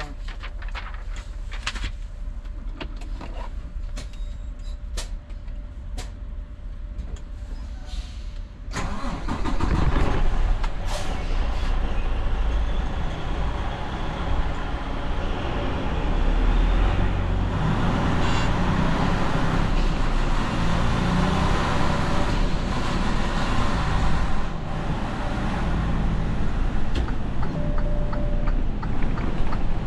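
Semi truck's diesel engine idling with scattered clicks and knocks in the cab. About nine seconds in the engine suddenly gets much louder as the truck pulls away and accelerates, and it stays loud from then on.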